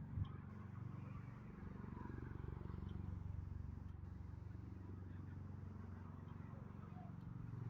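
Bell Boeing CMV-22B Osprey tiltrotor, its twin turboshaft-driven proprotors making a steady low drone with a fast throb. A short bump sounds just after the start.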